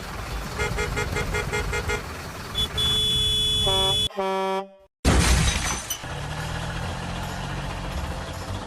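Cartoon vehicle sound effects: a fast run of beeps, then sustained horn honks, a sudden crash about five seconds in, and after it a steady engine rumble.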